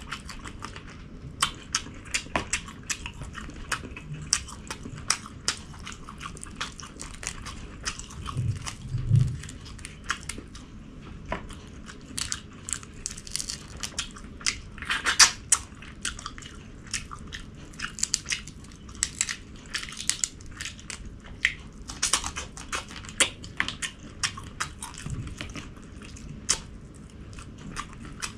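Close-miked eating: a person chewing and crunching food, with many sharp, irregular clicks and smacks. A couple of low thumps come about eight to nine seconds in.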